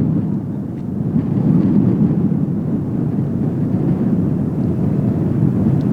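Boeing 777 GE90 turbofan engines at takeoff power: a loud, steady, deep rumble that dips slightly near the start and then holds.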